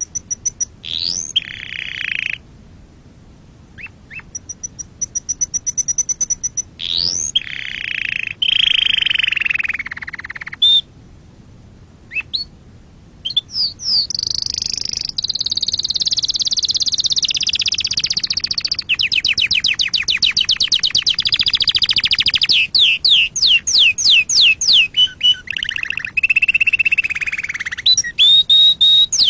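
Domestic canary singing: long varied phrases of fast trills and rolling, buzzy tours broken by short pauses, with rapid repeated sweeping notes near the end.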